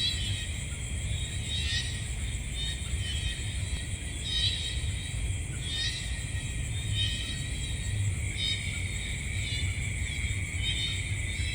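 Night chorus of insects: a steady high trilling in several pitch bands, with a short chirping call repeating every one to two seconds above it, over a low rumble.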